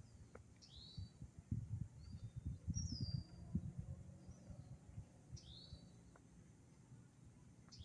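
A bird calling several times, short sharp chirps sweeping down in pitch, about every two to three seconds. Under them runs a low, irregular rumble, strongest in the first half.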